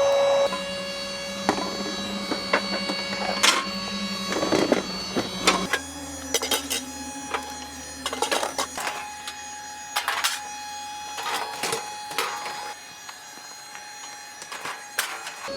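Irregular clicks and knocks, some in quick clusters, over steady held tones that shift twice.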